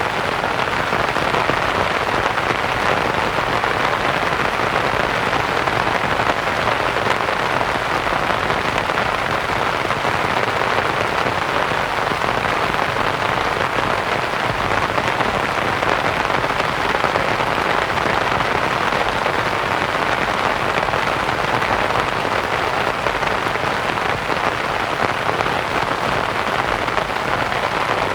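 Steady rain pattering on a canvas tent, blended with soft white noise into an even, unbroken hiss.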